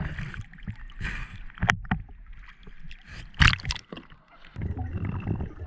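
Underwater sound during a river scuba dive: scattered clicks and knocks, such as rocks and gravel being moved, then about two-thirds in a steady low rushing, like water and bubbles around the diver.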